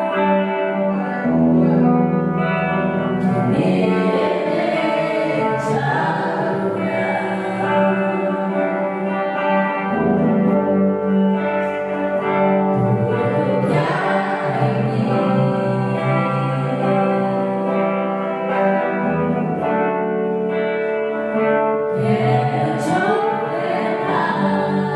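Gospel worship music: singing with guitar accompaniment, steady throughout.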